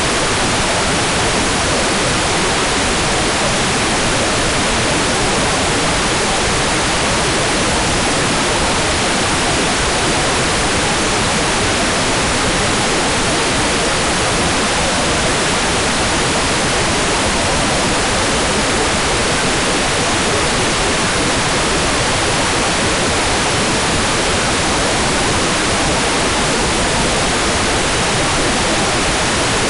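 Hair dryer running steadily: an even, unbroken hiss of blowing air that does not change.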